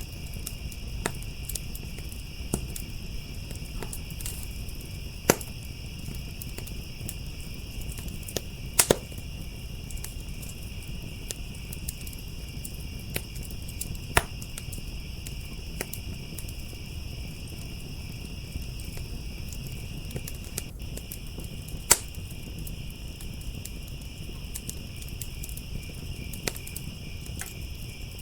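Wood fire crackling, with scattered sharp pops, four of them loud, over a steady, unbroken chorus of crickets.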